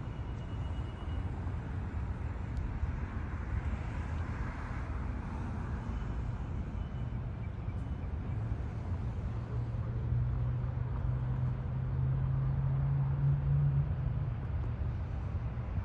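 Steady outdoor rumble of road traffic, with a low engine hum that grows louder from about halfway through and fades away near the end.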